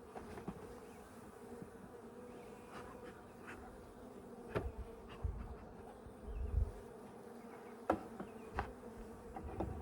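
A honeybee colony buzzing steadily in an open hive, stirred up by the disturbance. A few sharp clicks and low knocks from handling the hive sound over the hum in the second half.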